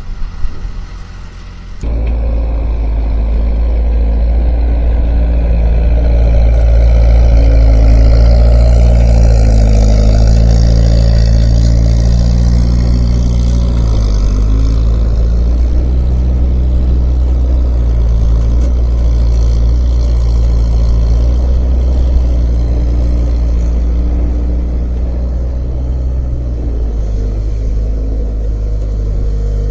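Skid steer engine running hard at high throttle, its pitch rising and falling as it works. It gets suddenly louder about two seconds in and stays loud.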